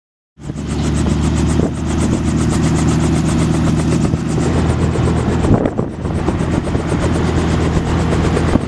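Robinson R44 helicopter running, its six-cylinder piston engine and rotor making a loud, steady drone. The sound cuts in abruptly just under half a second in.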